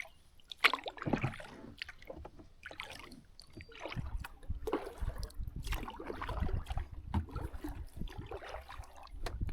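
Water splashing and gurgling around a kayak in irregular bursts, with a low rumble from about four seconds in.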